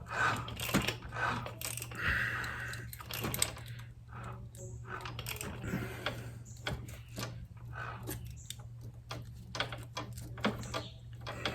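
Irregular light metallic clicks and taps of hand tools and feeler gauge blades being worked at the valve clearances of a Yamaha Venture's V4 engine, over a steady low hum.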